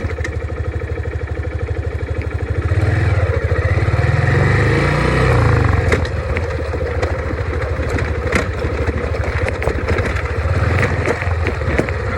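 Dirt bike engine running with a rapid low pulse, getting louder about three seconds in and easing off just before the halfway point, with a few sharp knocks after that.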